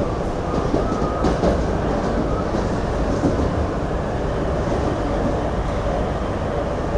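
Steady rumble and clatter of a CSX intermodal freight train's container cars rolling past on the adjacent track, heard from inside a moving commuter train car, with a few sharp clanks in the first two seconds.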